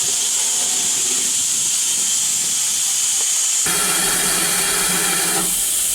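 Steam locomotive standing with steam hissing steadily. About halfway through, a lower rumble with a steady hum joins in for about two seconds, then drops away.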